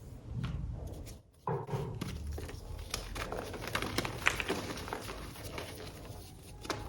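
A block of reformed gym chalk being crushed and crumbled, with dense crunchy crackling and a few sharper snaps. There is a brief pause about a second in.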